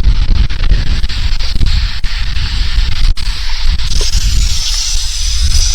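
Wind buffeting the microphone: a heavy, gusting rumble with a steady hiss over it.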